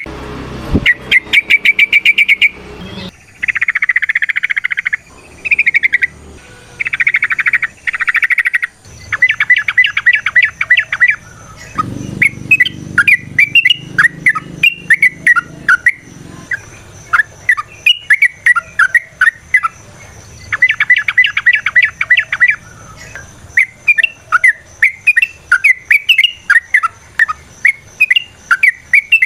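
Yellow-vented bulbul (trucukan) singing: fast rattling trills of rapidly repeated notes, three times, alternating with runs of short chirping notes, and a couple of harsher, buzzier chatters in the first third.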